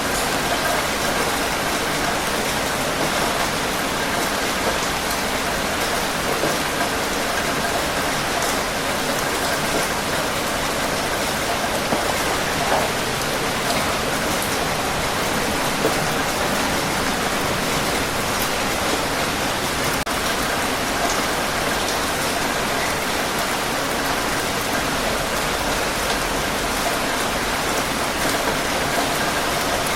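Steady heavy rain falling, a dense even hiss of drops pattering on surfaces.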